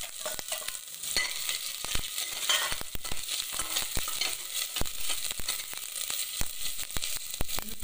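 Chopped garlic and ginger sizzling as they fry in hot coconut oil in a stainless steel pot. A steel ladle stirs them, clicking and scraping against the pot many times.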